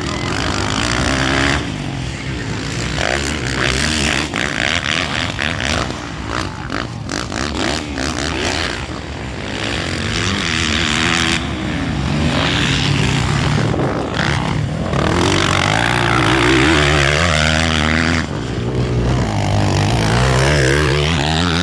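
Motocross dirt bike engines racing, revving up and down in pitch as the bikes accelerate and shift, with several engines overlapping.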